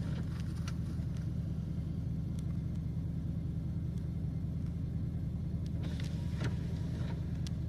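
Truck engine idling, a steady low drone heard from inside the cab, with a few faint clicks about six seconds in.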